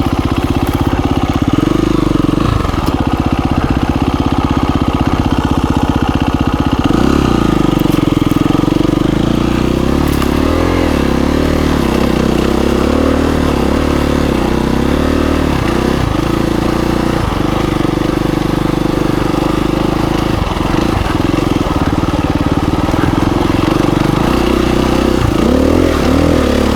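2017 KTM 350 EXC-F dirt bike's single-cylinder four-stroke engine running under way, its pitch rising and falling again and again as the throttle is worked on the trail.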